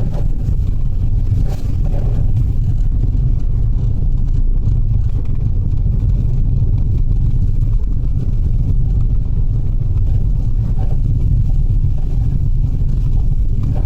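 Steady low rumble of engine and road noise inside a Mitsubishi Delica van's cabin while it drives.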